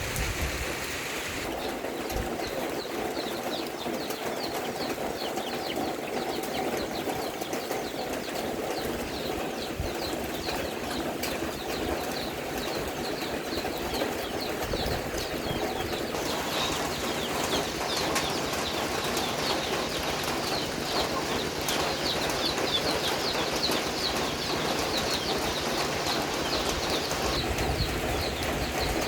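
Steady rain falling, with a dense chorus of short, high, rapidly repeated chirping calls that grows louder about halfway through.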